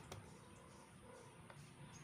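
Near silence with a few faint clicks.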